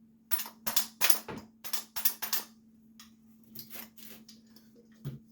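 Quick metallic clicks and scrapes of a small tool working at a carburetor body to pry out a stuck check ball, about ten sharp sounds in the first two and a half seconds, then a few fainter ones. A steady low hum lies underneath.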